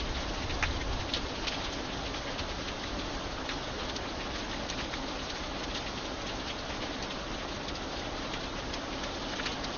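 Rain falling steadily on an iron bridge, with single drops ticking sharply now and then.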